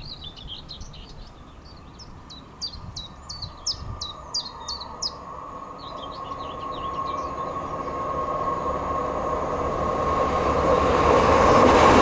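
A West Midlands Railway diesel multiple unit approaching along curved track, its sound growing steadily louder through the second half until it is passing close. A bird sings a run of quick chirps in the first half.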